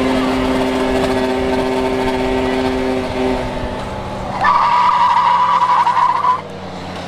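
Petrol engine of an off-road motor vehicle running close by over a steady rush of noise. Two steady tones stop about three seconds in, then a louder high-pitched whine holds for about two seconds before dropping away.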